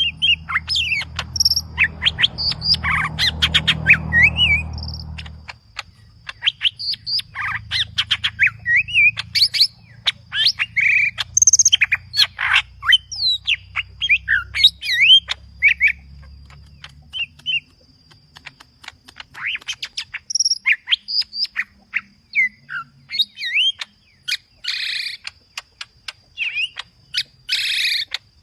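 Cucak ijo (green leafbird) singing in full, aggressive song: a fast, continuous stream of varied whistles, chirps and harsh notes, with phrases copied from other birds. A low rumble sits under the first five or six seconds.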